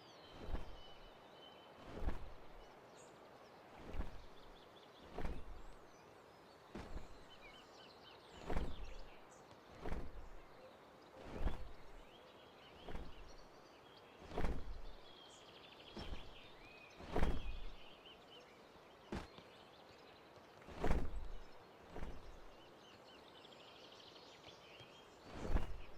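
Soft, dull thumps about every one and a half seconds, with faint bird chirps between them.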